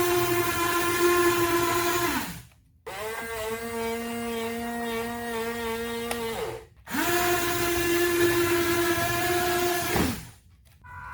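Small electric motor of an RC car whining at a steady high speed in three runs, each ending with the pitch dropping as the motor spins down; the middle run is at a different pitch.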